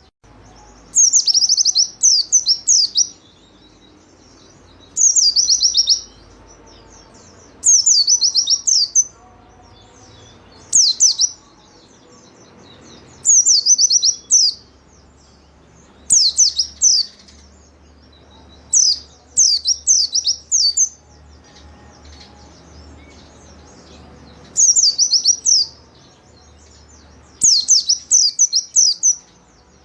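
A white-eye (pleci) in full song: short, loud phrases of rapid high chirping notes, each about a second long, repeated every two to three seconds with short pauses between them.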